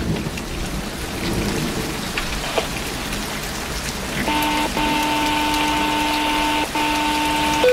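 Heavy rain falling in a thunderstorm. About four seconds in, a scanner radio sounds a steady alert tone, two pitches held together, broken twice for an instant: a dispatch tone ahead of a fire call.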